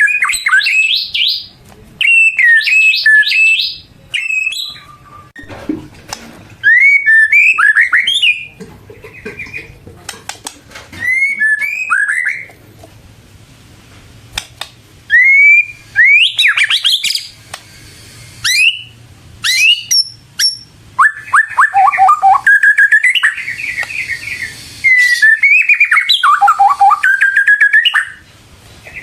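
White-rumped shama (murai batu) singing loud, varied phrases of clear whistles, slurred notes and quick trills, with short pauses between the phrases. Near the end it sings a longer run of rapid notes.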